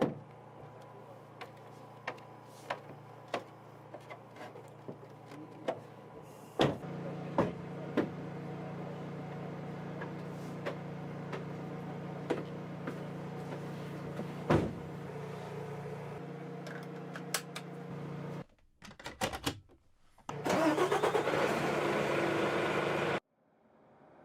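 A vehicle engine running steadily, with sharp clicks throughout. It gets louder about six and a half seconds in. Near the end there is a brief dropout, then a louder rushing noise that cuts off abruptly.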